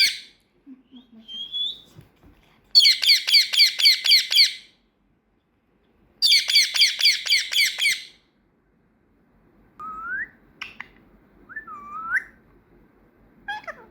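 A pet parrot gives two runs of rapid, harsh repeated squawks, each about two seconds long, then a few short rising whistles near the end.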